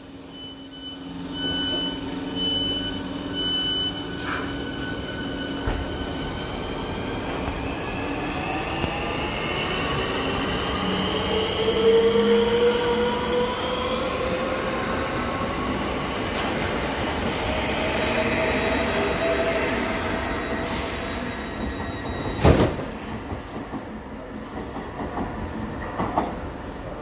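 Electric multiple unit pulling out of the platform, its traction motors whining in several tones that climb steadily in pitch as it picks up speed, over the rumble of the wheels. A high tone pulses for the first few seconds, and there is a single sharp knock near the end.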